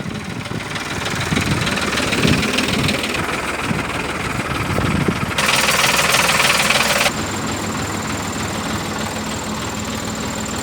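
Diesel engine of a Tata LPT 2515 cargo truck running at idle with a rough, knocking note. About halfway through, a loud hiss cuts in for nearly two seconds, then stops suddenly.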